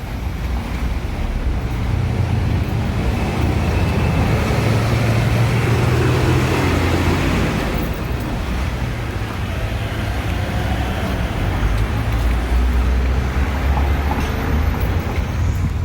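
Steady motor-vehicle and road noise: a continuous low rumble with a broad hiss over it, holding level throughout.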